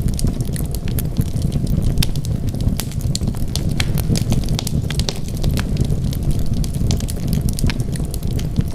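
Wood fire burning steadily, a continuous low rumble of flames with many sharp crackles and pops from the burning logs scattered throughout.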